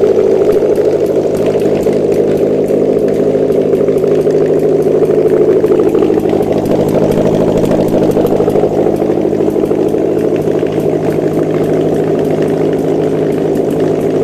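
Subaru EJ205 turbocharged flat-four engine running at a steady idle on a test stand.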